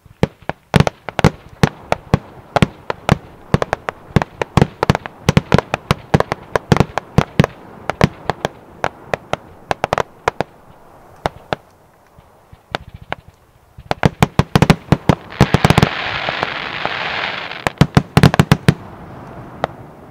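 Aerial fireworks bursting in a rapid, uneven string of sharp bangs and cracks. There is a brief lull about two-thirds through, then a loud hiss lasting about two seconds with bangs over it, and a final flurry of cracks near the end.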